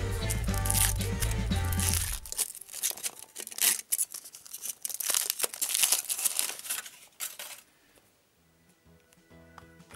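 Background music for about the first two seconds, then thin foil wrapper crinkling and tearing as it is peeled off a chocolate surprise egg, for around five seconds. Faint music returns near the end.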